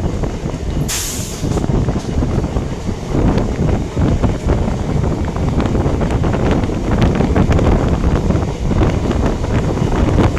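Rumble and rattling clatter of a moving passenger train's wheels running over the rails and points, heard from the coach's open doorway with wind buffeting the microphone. A short hiss sounds about a second in.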